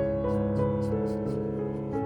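Background piano music: slow, gently sustained chords.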